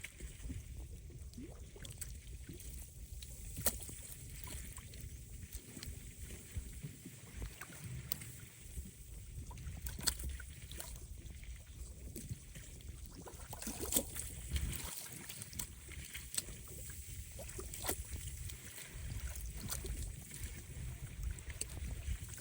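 Wind-driven waves lapping and splashing at a lake's edge, with wind buffeting the microphone as a low rumble and a few sharper splashes now and then.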